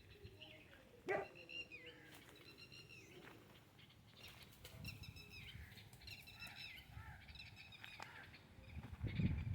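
Birds calling in short, repeated chirps, with a sharp knock about a second in and a louder burst of low rustling thumps near the end.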